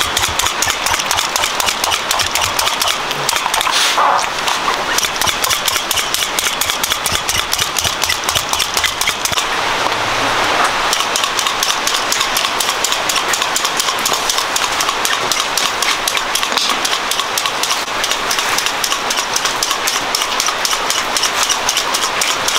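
Pork leg frying in hot oil, with steady dense crackling and spitting.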